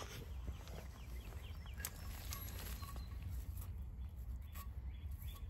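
Faint bird chirping: short, quick falling notes repeated about three times a second, clearer in the second half, over a steady low rumble on the microphone.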